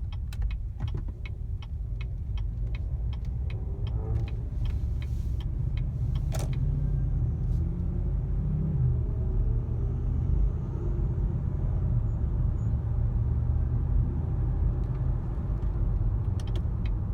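Inside the cabin of a 2015 Cadillac Escalade while driving: steady low engine and road rumble. A rapid, regular ticking comes in the first second and again near the end.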